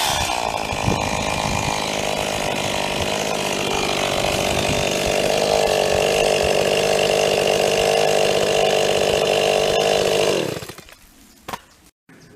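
Old STIHL chainsaw running at high revs through a cut, with a slight change in pitch about four seconds in. It stops suddenly near the end, leaving near quiet with one faint click.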